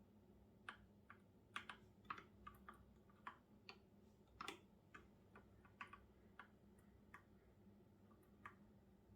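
Computer keyboard being typed on: soft, irregular keystrokes, a few a second and some in quick runs, over a faint low hum.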